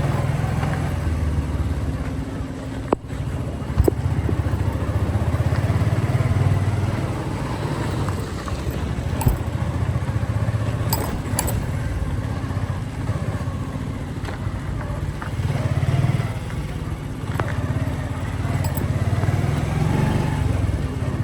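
Motorcycle engine running under way, a steady low rumble that swells and eases with the throttle. Two sharp clicks come about three and four seconds in.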